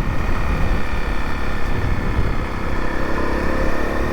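Motorcycle running steadily on the road, with a rough rumble of wind on the microphone.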